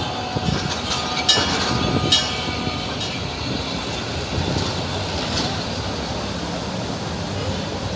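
Train running along the tracks: a steady rumble and rush with two sharp metallic clacks about one and two seconds in.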